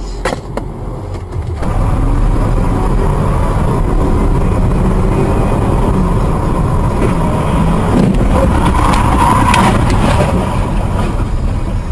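Car engine and road noise as a steady rumble, a few clicks just after the start, the rumble growing louder about a second and a half in.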